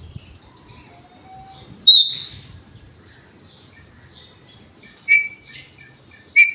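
Indian ringneck parrot calling: one loud shrill call about two seconds in, then two short sharp calls near the end, with faint chirps and whistles between.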